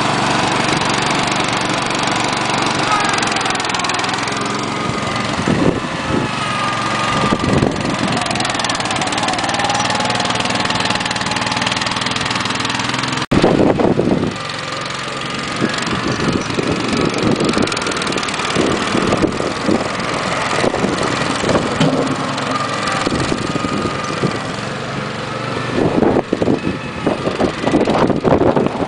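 Small garden-tractor engine running steadily. About 13 seconds in the sound cuts abruptly, and afterwards the engine runs on under frequent irregular low thumps and rumbles.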